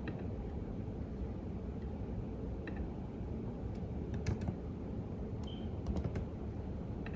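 Computer keyboard typing in short, sparse runs of key clicks, a handful about four seconds in and a few more around six seconds, over a steady low background hum.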